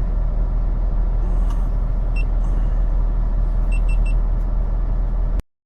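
A semi truck's diesel engine idling with a steady low rumble. There is a short high beep about two seconds in and three quick beeps near four seconds. The sound cuts off abruptly just before the end.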